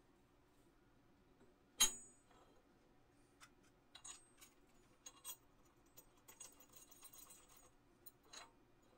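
Metal pieces being handled in a workshop. A sharp metallic clink with a brief high ring comes about two seconds in, then a scatter of lighter clicks and clinks, and another clink near the end, over a faint low hum.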